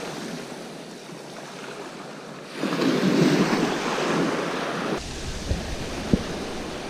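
Sea waves breaking on the beach; a wave surges in about two and a half seconds in and washes back over the next couple of seconds.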